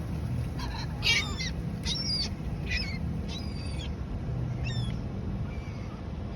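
Seagulls in a flock calling repeatedly: short, high, falling calls, about half a dozen in the first five seconds, thinning out near the end. A steady low hum runs underneath.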